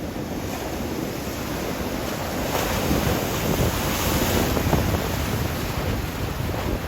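Ocean surf breaking and washing on a beach, with wind buffeting the microphone. The wash swells louder about two and a half seconds in and eases off after about five seconds. The surf is building ahead of an approaching typhoon.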